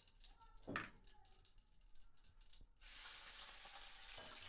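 Blanched mushroom pieces tipped into hot oil in a kadhai: after a single knock about a second in, a steady sizzle starts suddenly near three seconds in and keeps going.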